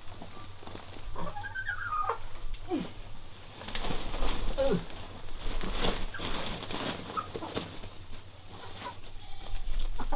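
Chickens calling: a string of short calls, several falling in pitch, amid scattered knocks and rustling.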